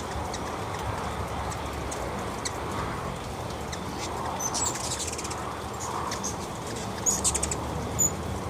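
Hummingbirds at a feeder giving short, high chips, in clusters about four and a half and seven seconds in, over a steady background hiss.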